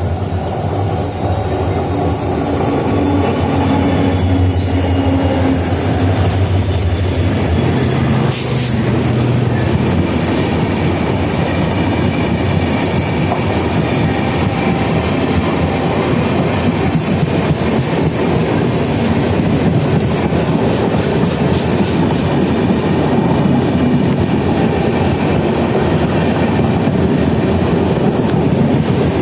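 An Indian Railways train passing close by. A locomotive's low engine drone is heard over roughly the first ten seconds, then the coaches roll past with a continuous clatter of wheel clicks over the rail joints and some thin wheel squeal.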